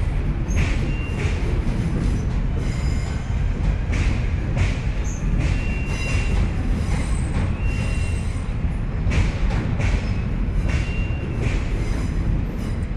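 Electric passenger train running across a riveted steel truss railway bridge. It makes a steady rumble, with irregular clicks and knocks from the wheels over rail joints and short high wheel squeals several times.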